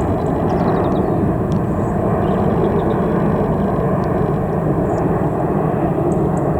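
Airbus A319-111 jet airliner's CFM56 engines giving a steady, unbroken rumble that neither rises nor falls.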